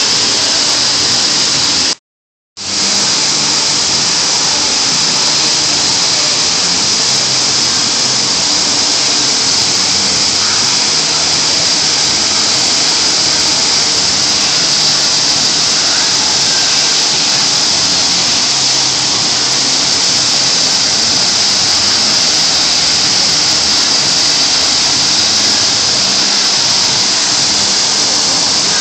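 Fountain water jets spraying and splashing: a loud, steady rushing hiss. The sound cuts out completely for about half a second near two seconds in.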